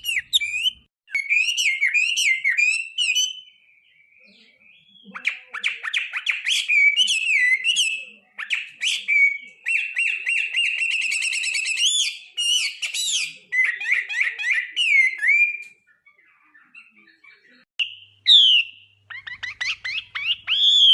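A songbird singing a long, varied song of whistled phrases and rapid trills, broken into bursts with brief pauses.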